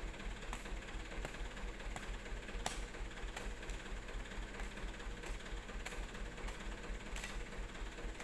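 Dump truck's diesel engine running steadily, a low even throb with faint ticks about every two-thirds of a second.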